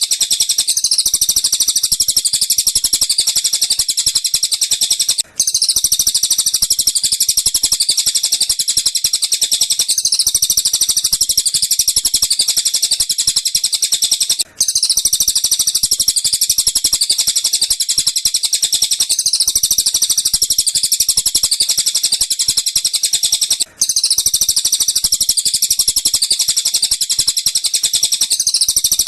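Recorded bird song played as a masteran training track of tengkek buto and cililin calls: a fast, continuous high-pitched chattering of chirps, looped so that it drops out for a moment about every nine seconds and starts again.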